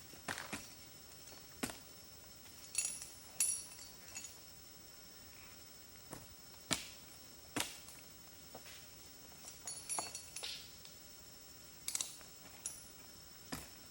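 Irregular sharp clicks and knocks, single or in small clusters, roughly one a second, over a faint steady background.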